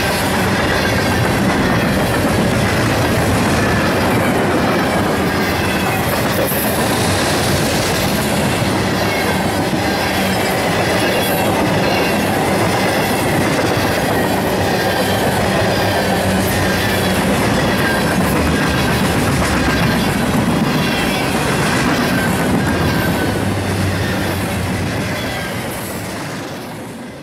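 Freight cars of a CSX freight train rolling past close by: a steady loud rumble of steel wheels on rail, with clacking over the rail joints and a faint high wheel squeal. The sound fades away over the last few seconds.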